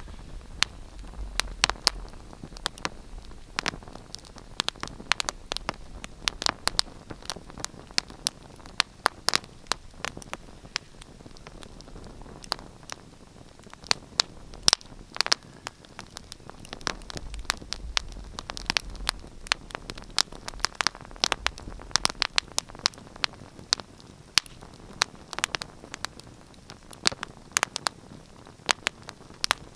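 Wood fire crackling in a fireplace: frequent irregular sharp pops and snaps over a soft hiss, with a low rumble that comes and goes.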